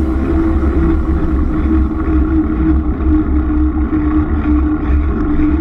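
Wind rumbling and buffeting on the microphone while cycling, a loud, uneven low rumble.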